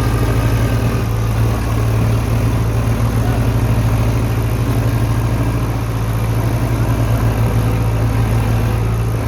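Tractor diesel engine running steadily at a low, even speed, with a deep, fast-pulsing note.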